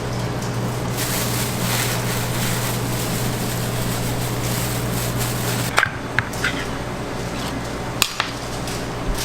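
Food-prep work noise: a steady machine hum with a hiss stops at a sharp knock about six seconds in. A few short clinks and knocks of kitchen utensils follow.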